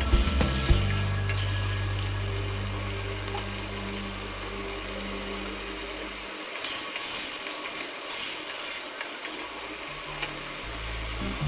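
Chicken pieces frying in curry masala in a pot, a steady sizzle, with a spatula stirring and scraping against the pot at the start. A low steady hum runs underneath and stops about halfway through.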